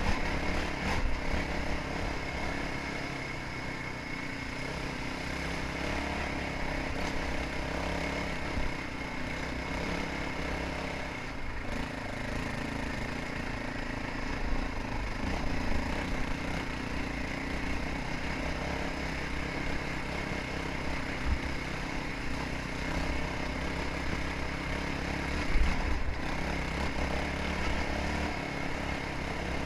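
Motocross motorcycle engine running steadily while riding, heard through an action camera on the bike or rider, with a low wind rumble on the microphone. A few sharp knocks stand out above the engine.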